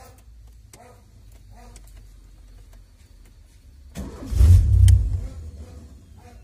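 1995 Ford Sierra engine, cold and rough-running, surging loudly for about a second some four seconds in as the throttle is pumped, then dropping back to a low rumble.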